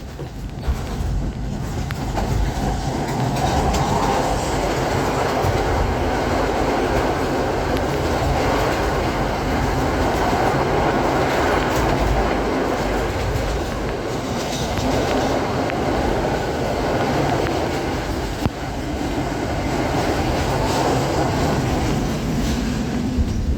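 Express passenger train running along the line: a steady rumble, with the wheels clicking over the rail joints and one sharp knock about three-quarters of the way through.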